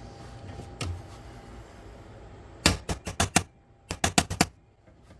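Hammer tapping on a metal pin punch against the scale's works, trying to drive out a pin. One knock, then two quick runs of sharp metal taps of four or five strikes each.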